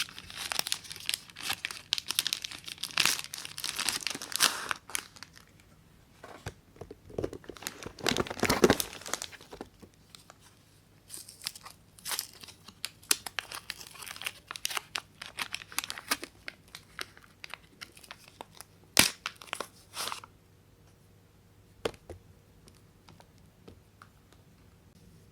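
Soap wrapper being crinkled and torn open by hand. There is dense crinkling at first and a louder tear about eight seconds in. Scattered rustles follow, with a few sharp clicks, and it mostly falls quiet over the last few seconds.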